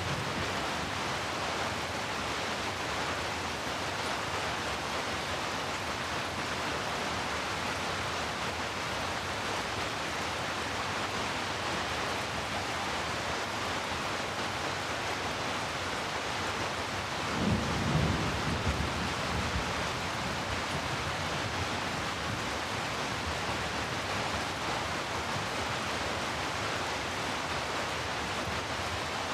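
Steady heavy rainfall hissing, with a low rumble of distant thunder rising and fading about two thirds of the way in.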